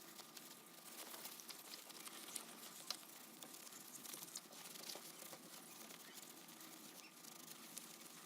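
Faint, dense scratching with many small clicks, like light hand work on a small object.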